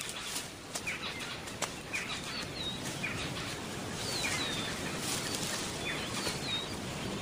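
Savanna ambience: small birds calling with short high chirps that glide downward, scattered every second or so, over a steady rustling hiss.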